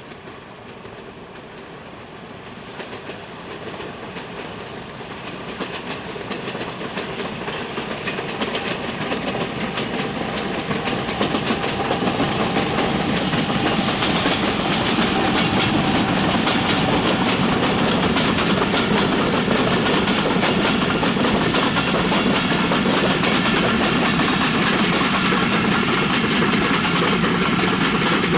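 A diesel-hauled express passenger train approaching, growing steadily louder over the first dozen seconds or so. Its coaches then roll past, with a steady clatter of wheels on the rails.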